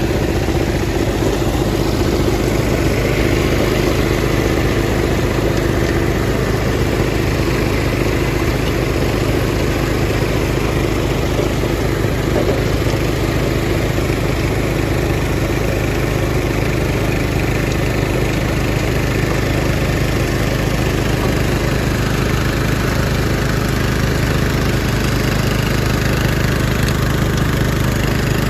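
Kohler engine of a Power King 1614 garden tractor running steadily at an even speed.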